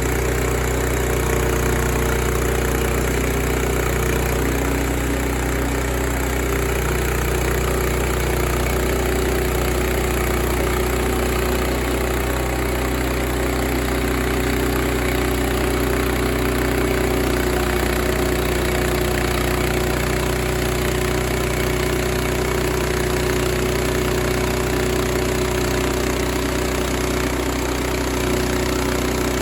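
Portable sawmill's engine running steadily at a constant speed, with a steady hum and whine that do not change.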